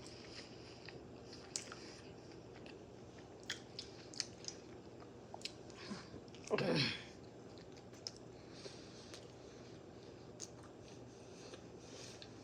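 Close-miked chewing of an Italian sausage on a bun with bell peppers: scattered soft mouth clicks and smacks. About halfway through comes a short falling vocal sound from the eater, the loudest moment.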